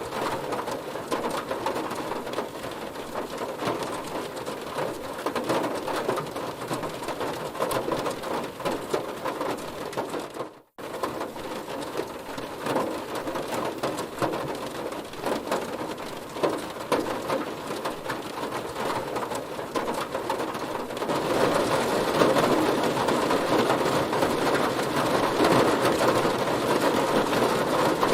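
Heavy rain hitting a car, a dense patter of drops. The sound cuts out for a split second about ten seconds in and grows louder about 21 seconds in.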